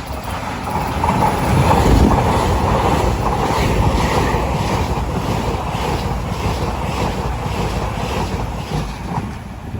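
A Taiwan Railway train passing close by: a rush of wheel and air noise that swells over the first two seconds and then slowly dies away, with wind on the microphone.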